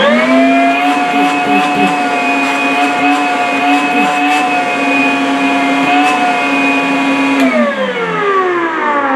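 Makita DVC750LZ 18V cordless wet/dry vacuum running on its highest speed, level 2. The motor spins up quickly into a steady whine, then is switched off after about seven and a half seconds and winds down with falling pitch.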